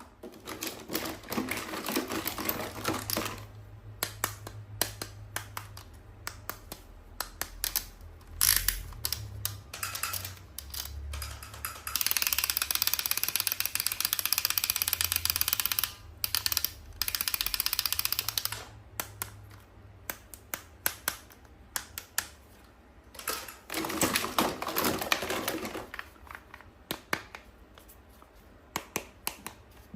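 Toy packaging handled during an ASMR unboxing: many sharp taps and clicks, with a loud stretch of dense rustling about twelve seconds in that lasts some seven seconds.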